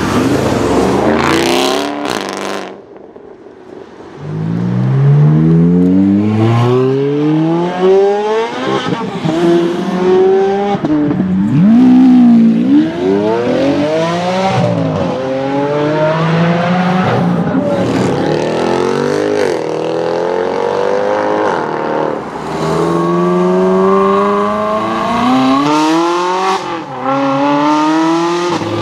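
Several different high-performance car engines in turn, revving and accelerating hard through the gears, their pitch rising again and again. There is a brief quieter gap about three seconds in.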